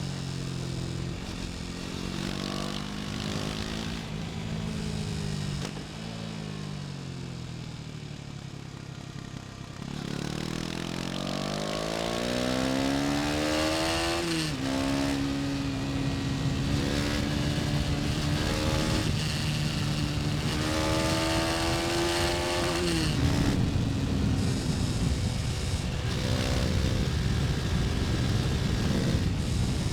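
KTM Duke 250's single-cylinder four-stroke engine while riding. It slows down over the first several seconds, then revs up again, with a brief drop in pitch about midway that sounds like a gear change. It then climbs slowly before the revs drop, leaving wind and road noise.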